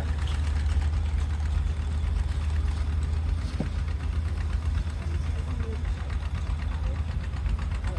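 Antique John Deere tractor engine running steadily under load as it pulls a transfer sled, a deep, even low-pitched pulsing with no let-up.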